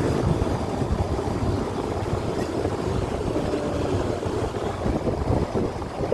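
Rushing air buffeting the microphone over a low, steady rumble, fluttering unevenly throughout.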